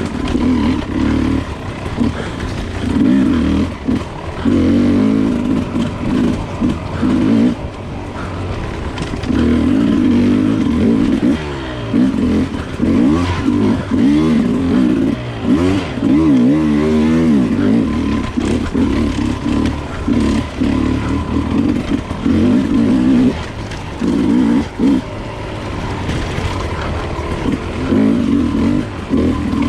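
Enduro dirt bike engine revving up and down over and over, the throttle opened and closed in quick bursts, with short gaps between them.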